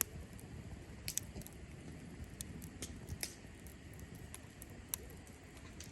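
Cherry-wood campfire crackling: scattered sharp pops and ticks from the burning logs over a low, steady rumble of flame.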